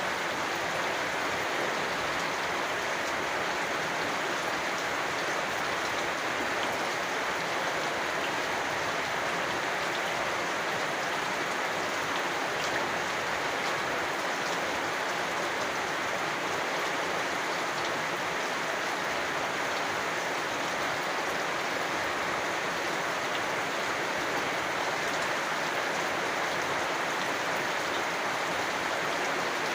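Steady rain falling: an even, unbroken hiss of raindrops with fine scattered drop ticks.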